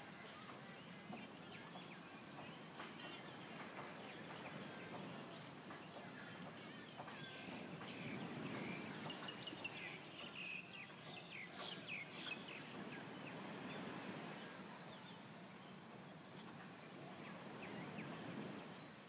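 Faint outdoor ambience: a steady low rushing noise with scattered short bird chirps, busiest in the middle stretch.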